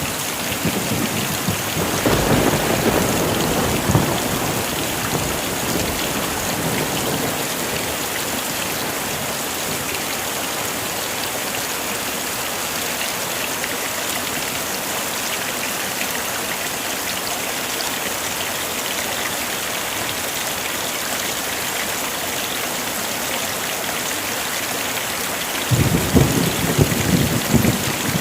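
Heavy rain falling steadily, with thunder rumbling about two seconds in and again near the end.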